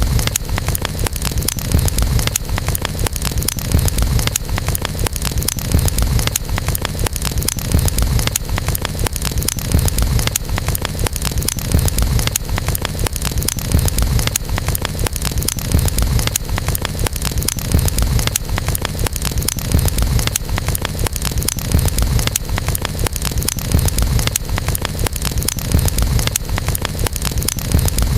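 Campfire burning, with dense crackling and small pops over a steady low rumble that swells about every two seconds.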